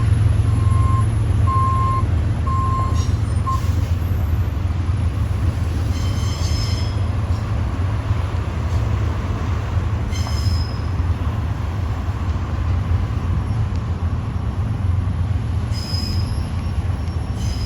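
A freight train rolling with a heavy, steady low rumble, its steel wheels giving a few short high squeals against the rails. A repeated beep sounds several times in the first few seconds.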